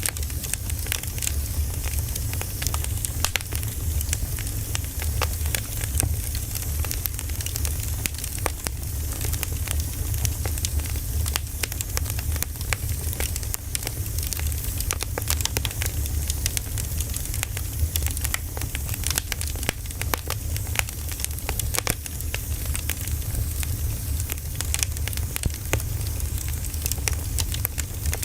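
Firewood burning, crackling with many small sharp pops over a steady low rumble.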